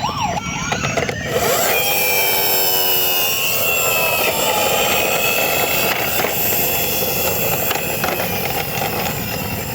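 A siren wail ends as a steady engine-like sound sets in about a second in, with slow gliding whines that rise and fall, running on at an even level.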